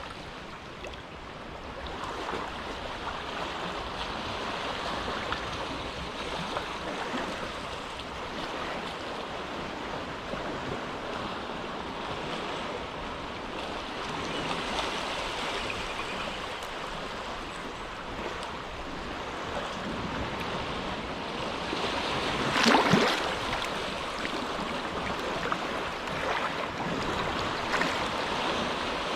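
Calm small waves lapping and washing along the shore of a sheltered inlet, a steady wash of water. One louder wave splashes about three-quarters of the way in.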